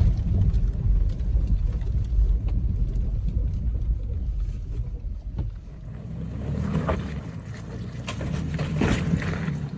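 Low rumble of an off-road SUV's engine and drivetrain crawling a rough trail. The rumble eases about halfway through, then swells twice near the end.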